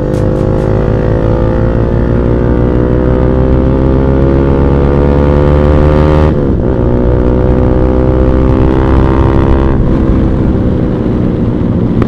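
Bajaj Pulsar NS200 single-cylinder engine through an aftermarket Akrapovic exhaust, accelerating hard under load. The engine note climbs steadily, drops sharply at an upshift about six seconds in, climbs again, and shifts once more near ten seconds.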